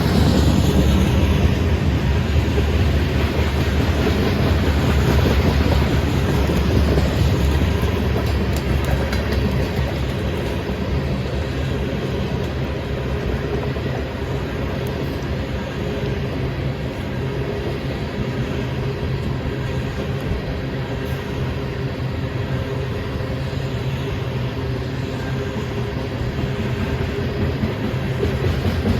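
Freight train cars rolling past on the track: a steady noise of wheels on the rails, a little louder in the first several seconds and then easing slightly.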